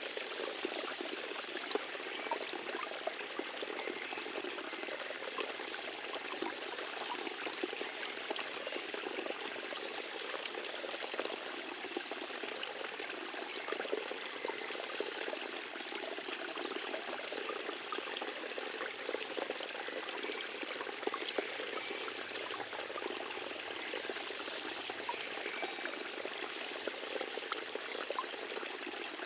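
Forest stream running steadily, water trickling and babbling over its bed.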